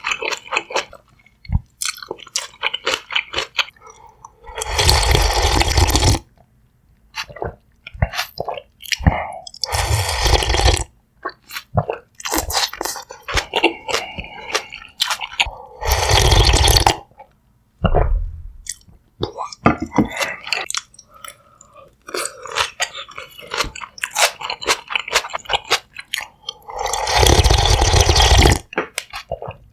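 Close-miked chewing and crunching of a mouthful of food, with many small wet clicks. Four times a louder, longer noisy sound lasts about a second or so.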